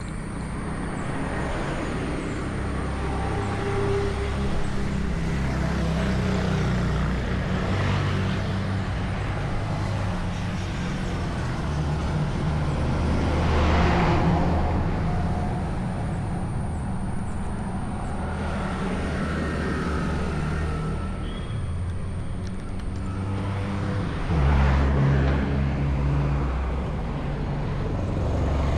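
Yamaha RX 100's 98cc air-cooled two-stroke engine running under way, its revs rising and falling, with wind rushing over the microphone. It gets louder in the first few seconds and swells again briefly about halfway and near the end.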